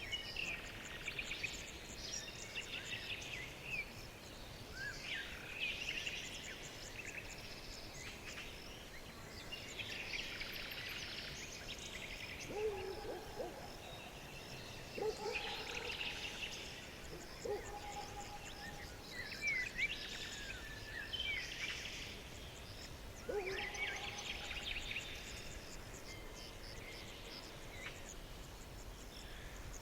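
Birds singing: phrases of high twittering song every couple of seconds over a steady background hush, with a few lower, shorter calls in the middle.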